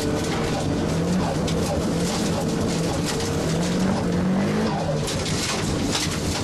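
Nissan S15 Silvia race car's engine heard from inside the stripped cabin, revving hard and falling back several times as the car accelerates and shifts, over a steady rush of tyre and gravel noise.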